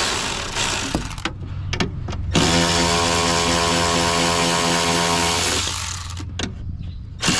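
An electric power tool's motor running at a steady pitch, stopping twice for a second or so and starting up again each time.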